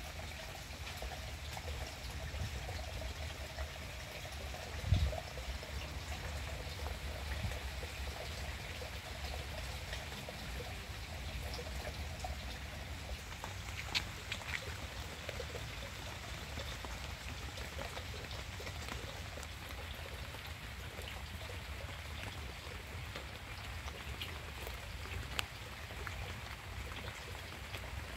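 Steady rain falling on garden foliage, with scattered drips and a low thump about five seconds in.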